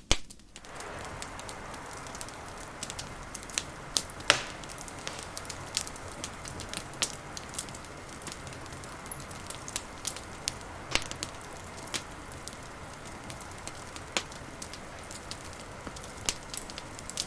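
Wood fire crackling: a steady low hiss with frequent sharp, irregular pops and snaps, one louder pop about four seconds in.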